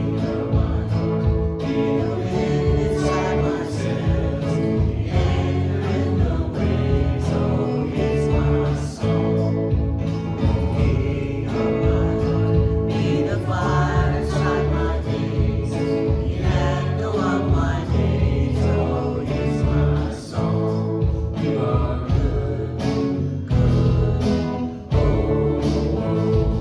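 Live worship band playing a song, with guitar accompaniment and voices singing together.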